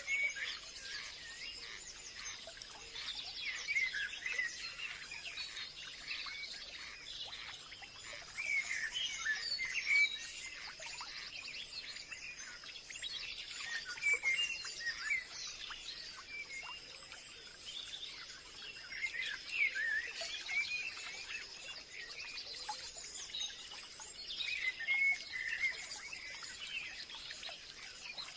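Forest ambience: many songbirds chirping and singing over one another, with a steady high-pitched hum beneath them.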